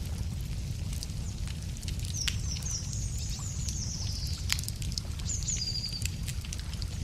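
Wood fire crackling with scattered sharp pops over a steady low rumble. A songbird sings a quick, slightly falling run of high notes about two seconds in, then a shorter phrase near the end.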